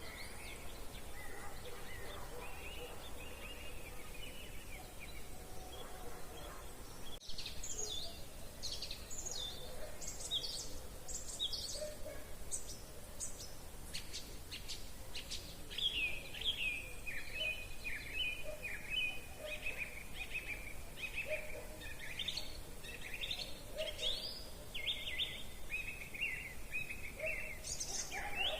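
Songbirds singing: faint song at first, then from about seven seconds in a closer bird sings clear phrases and runs of quick repeated notes, over a soft background hiss.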